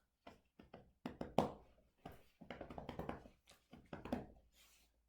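Close handling sounds: a run of sharp clicks and taps mixed with short rustling bursts, loudest about a second and a half in, as a young puppy is fed treats in clicker training.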